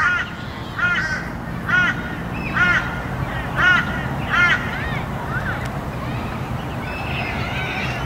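A bird calling in a series of short calls, each rising then falling in pitch, about one a second, stopping about halfway through.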